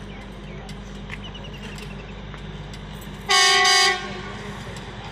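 Duomatic track-tamping machine running with a steady engine hum, then one short loud horn blast a little over three seconds in.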